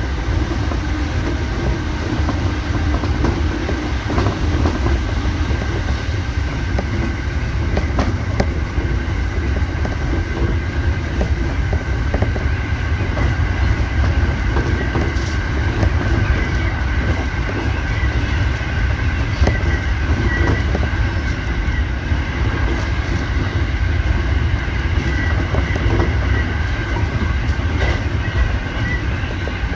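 Electric commuter train running along the line, heard from inside the front car: a steady low rumble with a steady high whine and occasional clicks of the wheels over the track.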